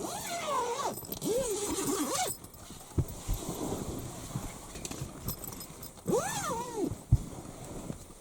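An animal calling: three drawn-out cries about a second long, each rising then sliding down in pitch, with a few sharp knocks in between.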